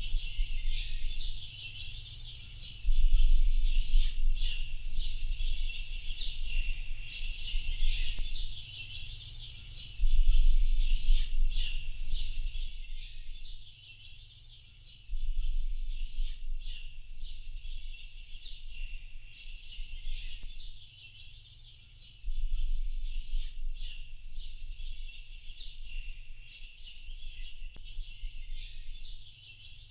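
A chorus of many small birds chirping and calling over each other without pause. Beneath it, a low rumble comes and goes every few seconds.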